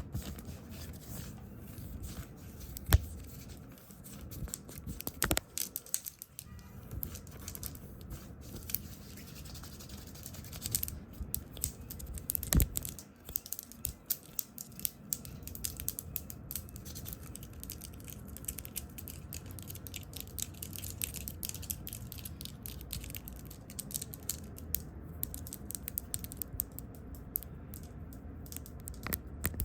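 Fast, close-miked ASMR triggers: hands tapping and brushing at the microphone, with dense irregular clicks and scratches and a few sharp, louder taps in the first half.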